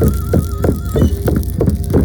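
Shaman's frame drum beaten in a steady rhythm, about three strokes a second, each stroke dropping in pitch. A high, wavering flute-like tone sounds over it for the first half and then stops.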